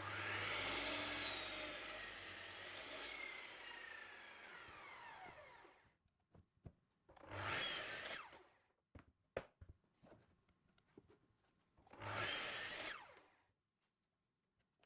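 Power saw cutting 12mm birch plywood: a long cut, then the motor winds down with a falling whine, followed by two short bursts of cutting.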